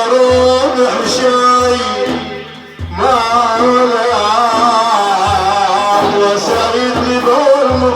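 A male voice sings a Sufi devotional praise song for the Prophet, in long, ornamented Middle Eastern melodic lines over a steady beat of low hand-drum strokes. The voice drops away briefly about two and a half seconds in and comes back near three seconds.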